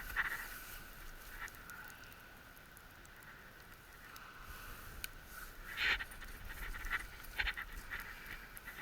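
Campfire burning low, with a faint steady hiss and scattered crackles and pops, the loudest about six and seven and a half seconds in; the fire is not burning up to full strength.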